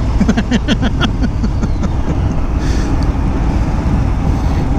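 Motorcycle running at road speed: a steady low rumble of engine and wind. In the first second and a half a quick run of short pulses rises over it.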